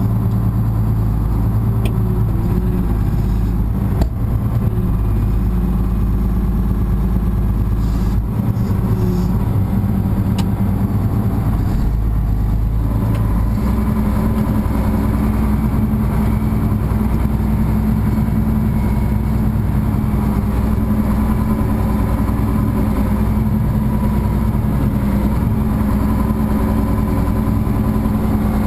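Farm tractor engine running steadily, heard from inside the tractor's cab; the engine speed changes twice, about a third and about halfway through. A single sharp click sounds about four seconds in.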